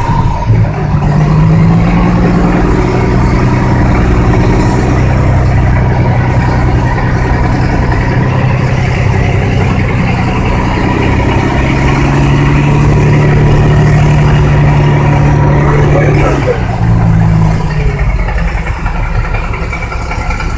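Heavy diesel engine running hard under load as a log truck is pushed up a muddy hill by a D6 dozer. Its pitch drops about 16 seconds in and it eases off shortly after.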